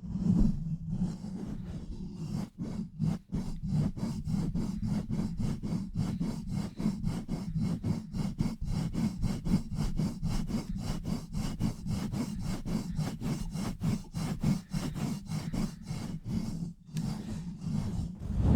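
Fingers scratching and rubbing fast and roughly on a bare microphone, at about five strokes a second, with a brief pause near the end.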